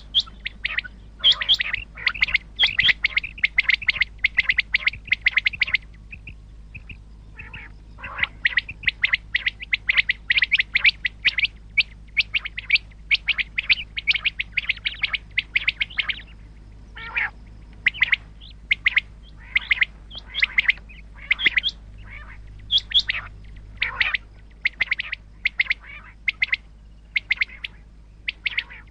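Common quail calling: rapid runs of short, sharp chirps repeated many times a second, with a lull of about two seconds a fifth of the way in. A faint steady hum lies underneath.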